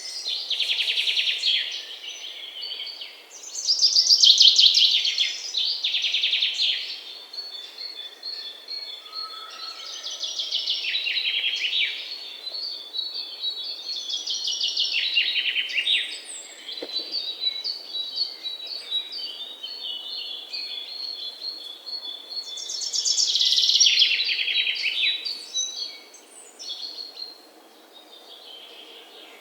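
Songbirds singing: loud trilled song phrases come every few seconds, while another bird keeps up a fast run of high repeated notes through the middle, over faint outdoor background noise.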